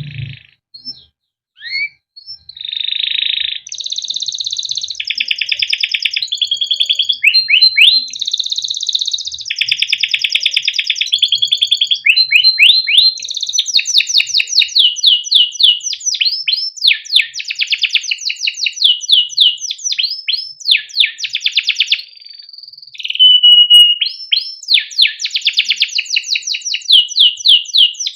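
Male canary singing a long, continuous song of rapid repeated trills, fast rolls and chirps, with a brief held whistle near the end.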